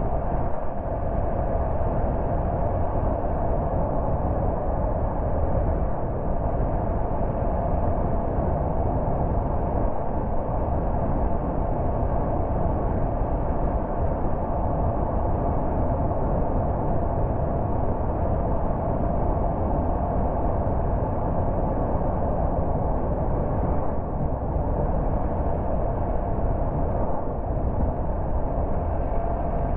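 A car driving at a steady pace: continuous engine and tyre-on-road noise with a faint steady hum, unchanging throughout.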